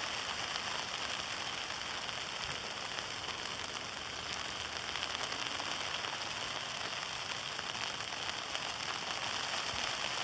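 Heavy sleet and graupel falling: a dense, steady patter of small ice pellets striking.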